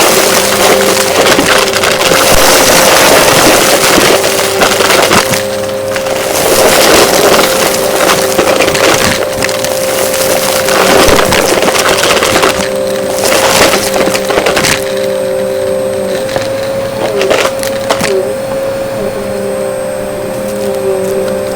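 Vacuum cleaner running with a steady whine while it sucks up crunchy debris, which crackles and rattles through it densely. After about fifteen seconds the crunching thins out to scattered clicks over the motor.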